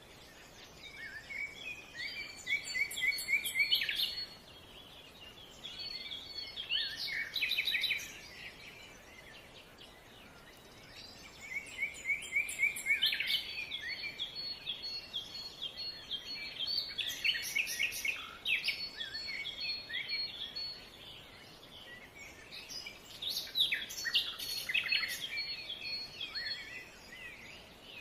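Small songbirds chirping and twittering in bouts a few seconds long with short pauses between them.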